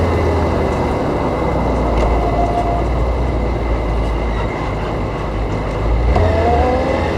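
Stock 2001 Kawasaki ZZR400's inline-four engine and exhaust running at expressway speed, with heavy wind and road rumble. The engine note rises in pitch about six seconds in.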